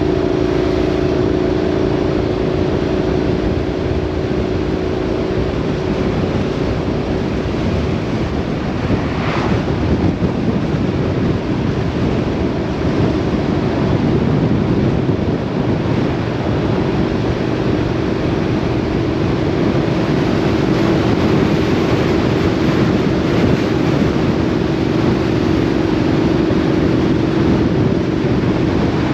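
A vehicle's engine drones steadily at road speed under a constant rush of wind and road noise.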